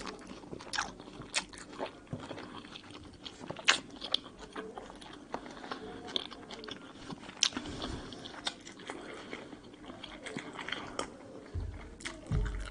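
A person biting into and chewing peeled tangerine segments: irregular wet clicks and crunches.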